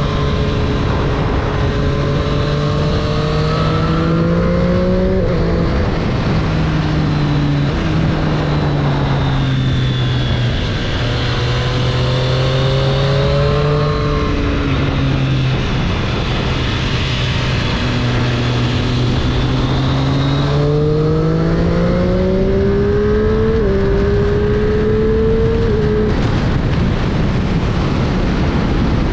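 2022 Triumph Street Triple 765 RS's inline three-cylinder engine accelerating through the gears, rising in pitch in each gear and dropping at each upshift, with a steady stretch in the middle. A constant rush of wind and road noise runs under it, and the engine tone fades into that rush near the end.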